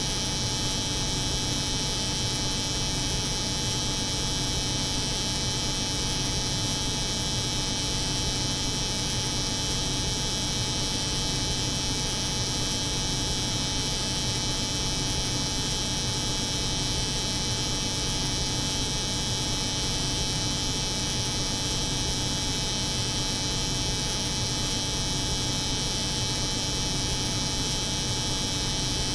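Layered, unchanging drone of an electric hair clipper running together with a cold room's refrigeration hum, mixed as continuous white noise.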